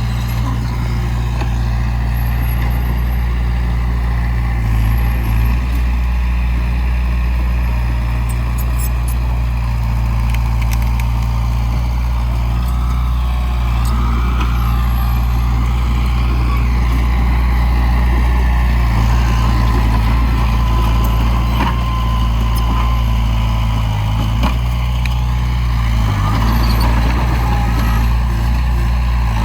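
Heavy diesel engine of earthmoving equipment, a dump truck or bulldozer, running steadily. Its note shifts slightly a few times.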